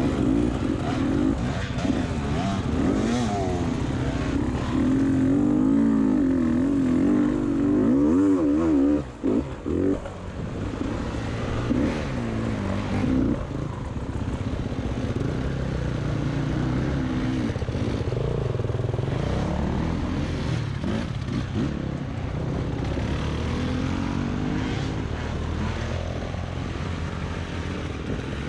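Beta 300 RR two-stroke dirt bike engine revving up and down with the throttle for the first several seconds, then running more evenly at lower revs after a brief dip about nine seconds in.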